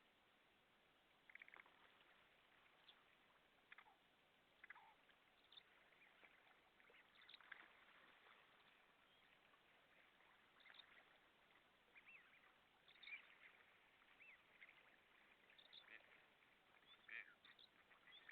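Faint calls of many birds, short scattered calls one after another over a light steady hiss.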